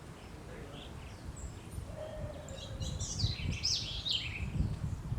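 Birds singing: scattered high chirps, then about halfway in a dense run of quick, falling notes for a second or two, over a low rumble.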